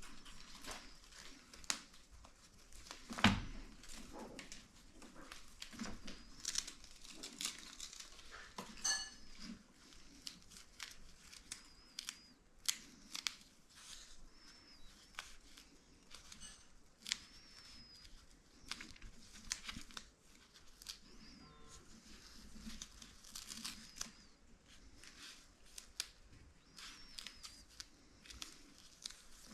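Hand work with crafting materials, with irregular crinkling, tearing and snipping sounds and scattered small clicks. A sharper knock comes about three seconds in.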